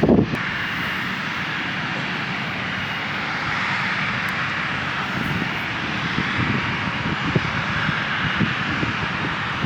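An airliner's engines running with a steady, even rush, with wind buffeting the microphone in low gusts.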